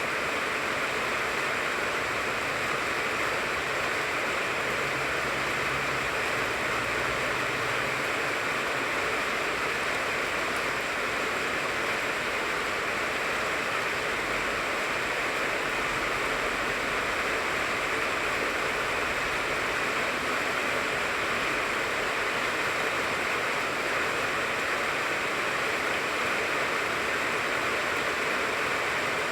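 Steady rain falling on a tangerine tree, an even, unbroken hiss with no single drops standing out.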